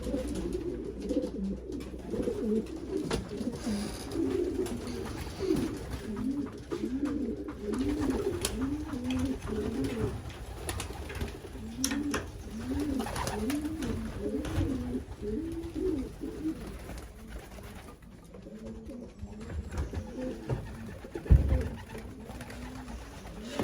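Pigeons cooing in a loft, with repeated rising-and-falling coos overlapping throughout. A brief thump about 21 seconds in.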